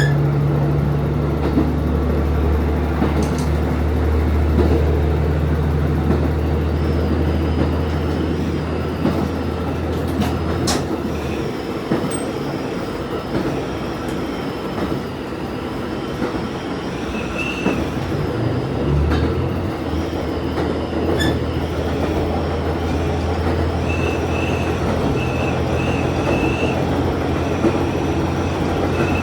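Diesel railcar running along the line, its engine note steady and strong, easing off about a third of the way in and picking up again around two-thirds through. Wheels click over rail joints, with a few brief high squeals from the wheels.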